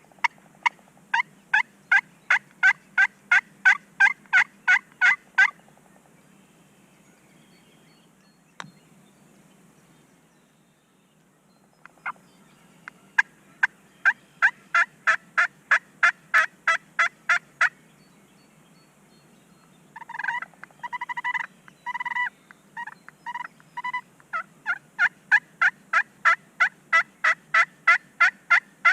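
Turkey yelping: three long runs of evenly spaced yelps, about three a second, with a rougher, choppier burst of calls between the second and third run.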